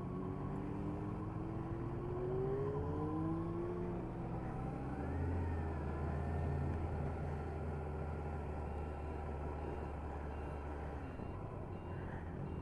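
Motor vehicle engines running. One rises in pitch over the first few seconds as it accelerates, then a steady low hum holds for several seconds before fading.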